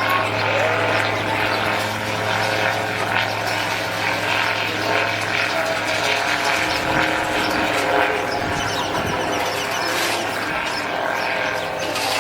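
Motorized hang glider's small engine and propeller droning steadily as it flies past overhead.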